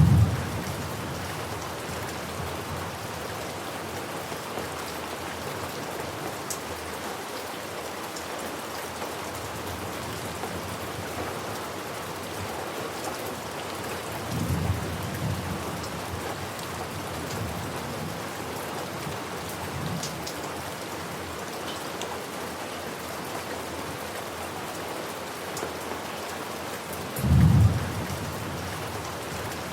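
Steady rain falling, with thunder rumbling three times: once right at the start, a softer roll about halfway through, and a loud one near the end.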